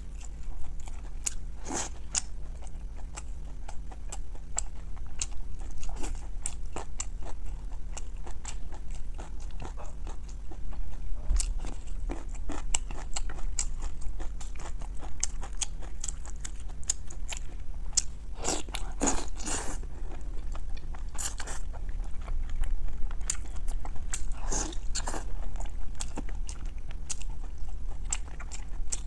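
A person chewing boiled pork belly close to a clip-on microphone, with many small sharp mouth clicks throughout and denser bursts of chewing twice in the latter half.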